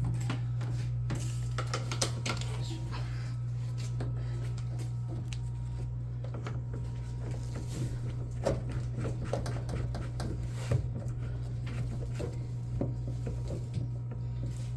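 A steady low hum runs throughout, with scattered light clicks, taps and knocks of parts and tools being handled.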